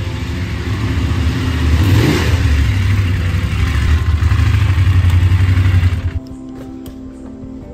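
BMW F 850 GS Adventure motorcycle's parallel-twin engine running, growing louder over the first two seconds and cutting off suddenly about six seconds in. Music follows.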